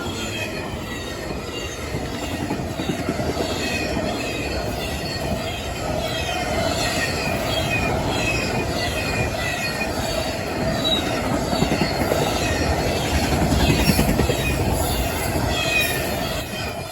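Cars of a long CSX intermodal freight train rolling past at speed: a steady rumble of wheels on rail, with short high wheel squeals repeating over and over.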